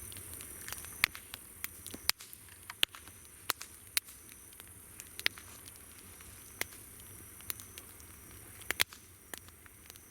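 Wood campfire crackling, with sharp pops at irregular intervals, over a steady high-pitched chorus of insects.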